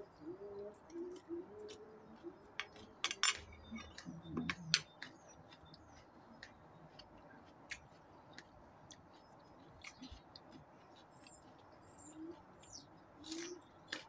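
Close-up eating sounds: irregular wet clicks and smacks of chewing and mouth noises, busiest in the first few seconds, as a spicy glass noodle salad and a raw red chili are eaten. Faint birds chirp now and then in the background.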